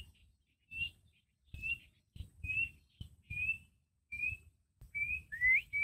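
A bird calling: a short, high whistled note repeated about every 0.8 seconds, the last few sliding upward in pitch.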